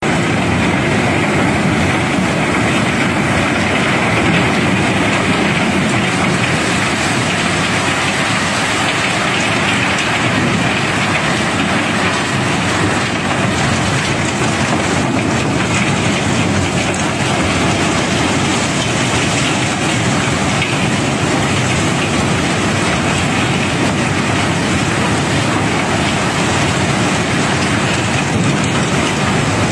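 Cobblestones pouring out in a continuous stream, a dense, steady clatter of many rocks knocking and sliding over one another.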